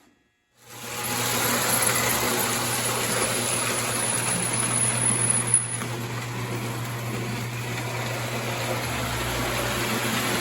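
Prewar O-gauge electric toy train running on tinplate track: a steady rattling rumble of motor and wheels over a constant low hum. It starts suddenly about half a second in.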